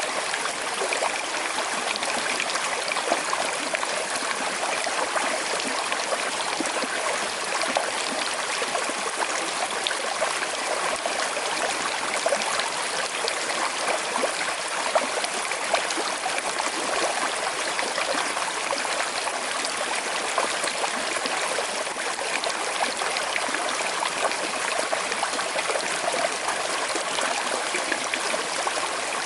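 Small river flowing with a slight current, a steady rush of water with light trickling and gurgling.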